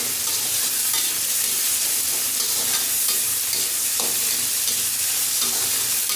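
Onions and tomatoes sizzling in hot oil in a metal kadai, a steady hiss, while they are stirred, with a few short scrapes of the spatula against the pan, one clearer about four seconds in.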